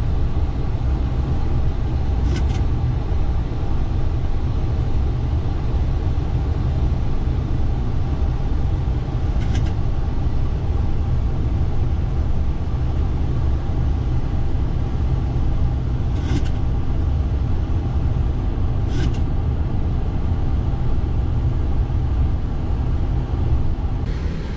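Steady rumble of an aircraft cockpit in flight after takeoff, engine and airflow noise, with four faint brief clicks.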